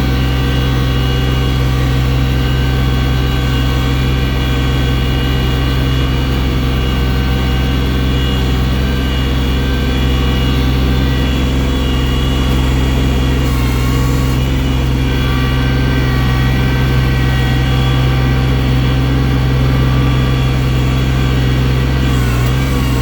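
Engine of a snow-clearing machine fitted with a loader bucket, running steadily under work, its pitch shifting slightly a couple of times.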